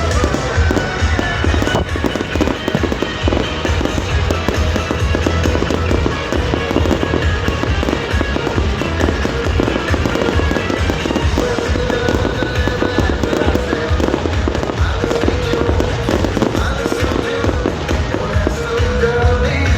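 Fireworks going off continuously: a dense, rapid run of bangs and crackles. Carnival songs play over them.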